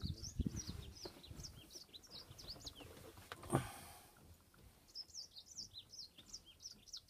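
Small birds chirping in quick runs of short, high chirps, with one thump about three and a half seconds in.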